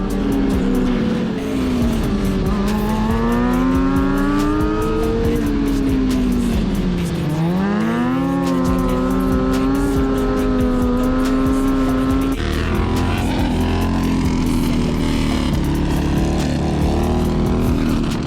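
Motorcycle engine revving up and down as the bike is ridden, its pitch falling and rising several times, with a sharp drop and steep climb about seven seconds in.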